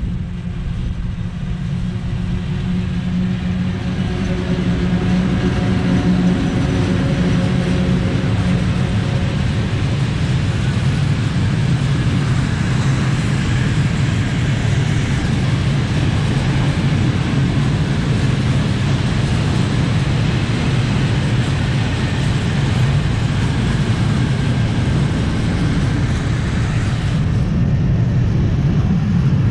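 Electric locomotive passing at the head of a long freight train of high-sided open wagons. A steady hum with a few held tones over the first several seconds, then the wagons' wheels give a continuous rumble on the rails that grows louder and stays steady.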